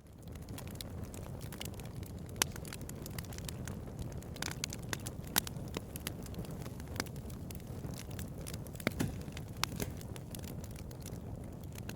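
Bonfire crackling: a steady low rumble of burning with frequent irregular sharp pops and snaps. The sound rises in from silence right at the start.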